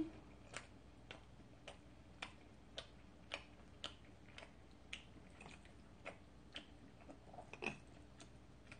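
Close-miked chewing of a mouthful of cream pasta: soft, wet mouth clicks in a steady rhythm, about two a second, with a slightly louder click near the end.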